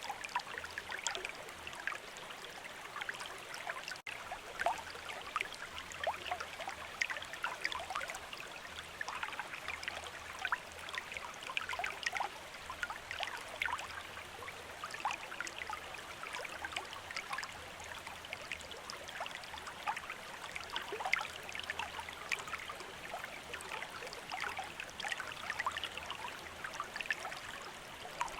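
Shallow stream of running water, trickling and splashing steadily with many small quick splashes and no pause.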